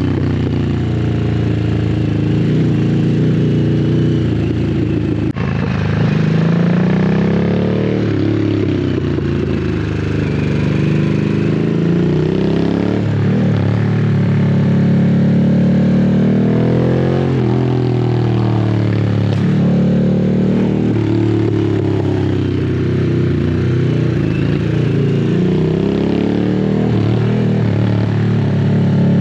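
Harley-Davidson Sportster S's 1250 cc V-twin running through a custom slip-on exhaust, held at low revs, its note rising and falling again and again as the rider opens and closes the throttle. There is a brief break in the note about five seconds in.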